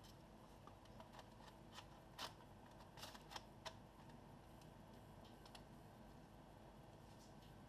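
Near silence broken by a few faint, short clicks and taps between about one and four seconds in: small laptop parts being handled during reassembly.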